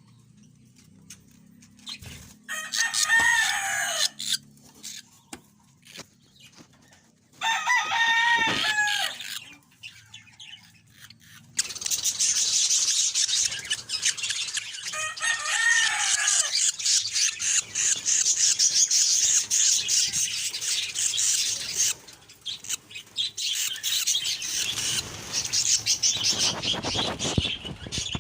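Budgies calling and chattering: three loud, drawn-out calls that drop in pitch at the end, then a dense, continuous high chatter with clicks from about a third of the way in.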